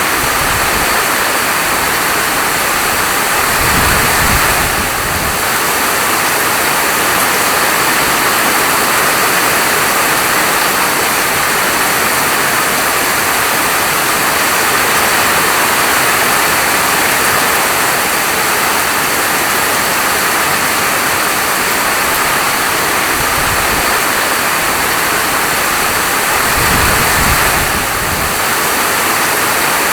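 Steady, dense hiss of heavy falling rain. Twice, about four seconds in and near the end, a low rumble swells for a second or two.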